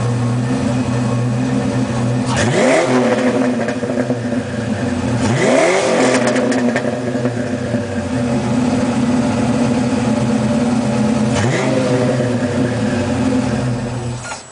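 1988 Ford Mustang Fox body's 5.0-litre V8 through a Flowmaster exhaust, idling and blipped three times, each rev rising and falling back to idle. The sound cuts off suddenly near the end.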